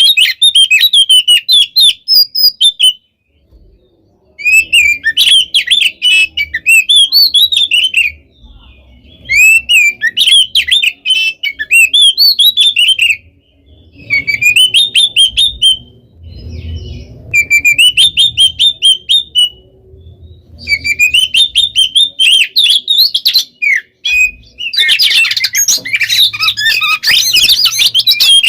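Oriental magpie-robin (kacer) singing loudly in rapid phrases of sharp whistles and rattling trills, in bursts a few seconds long with short pauses between. Near the end the song becomes dense and unbroken.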